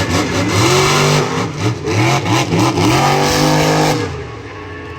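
Monster truck engine revving hard, its pitch climbing and falling several times as the throttle is worked, then easing off about four seconds in.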